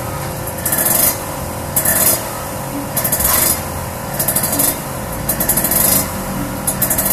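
Kawasaki Ninja R's 150 cc two-stroke engine running through a Cream-Pie ZZ1 aftermarket expansion-chamber exhaust, with a sharp hiss that comes and goes about once a second over the steady engine note.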